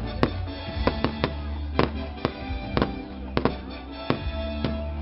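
About a dozen sharp cracks and bangs at irregular intervals, over background music with steady held notes.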